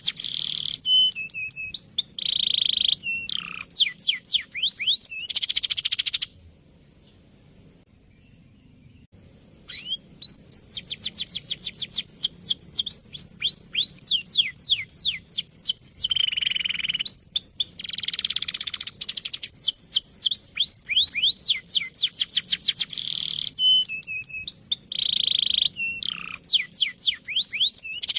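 Male domestic canary singing: long rolling trills of rapid, repeated down-sweeping notes alternating with buzzy passages. The song stops for about three seconds some six seconds in, then resumes.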